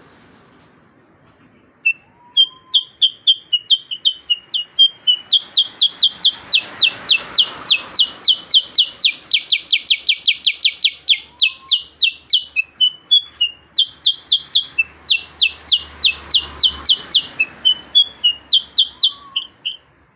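A cucak kurincang, a bulbul of the kutilang family, singing its rolling 'ngerol' song: a long unbroken run of sharp, rapid chirps, about four a second, beginning about two seconds in and running almost to the end. A faint rising note sounds three times beneath it.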